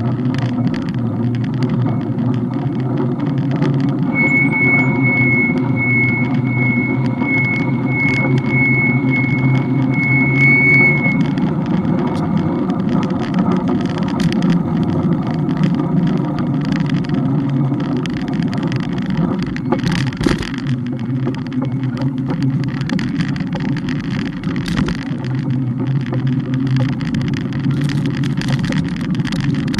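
Bike riding along city streets: a steady low rumble with scattered rattles and knocks from the road surface. From about 4 to 11 s in, a high electronic beep repeats roughly every two-thirds of a second.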